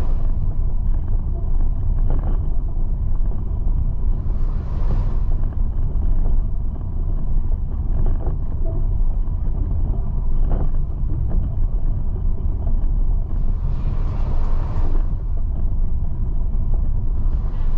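A moving train rumbling steadily along the track, with a few sharp knocks and several swells of hiss lasting a second or so each.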